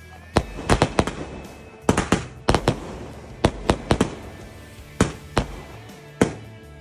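A 30-shot aerial firework cake firing, its shells bursting overhead in a string of over a dozen sharp bangs, often two or three in quick succession.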